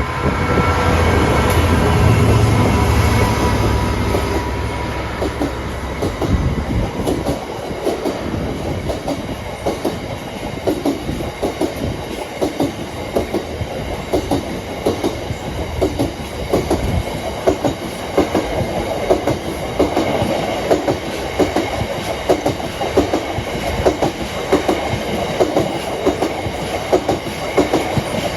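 A diesel freight locomotive passes close by, its engine's low rumble loudest in the first few seconds. A long string of freight wagons follows, rolling past with a steady, rhythmic clickety-clack of wheels on the track.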